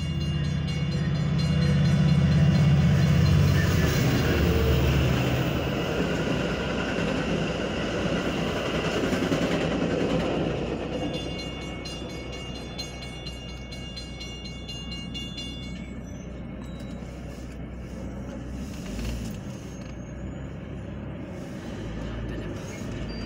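Metra commuter train passing a grade crossing, heard from inside a car: a low diesel rumble, loudest in the first few seconds, then the train running on by. The crossing's warning bell rings until about two-thirds of the way through, then stops, leaving quieter road noise.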